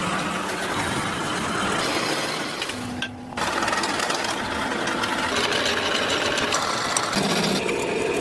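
Machinery running with a dense, noisy sound and short steady tones, changing abruptly with a brief dip about three seconds in and again near the end.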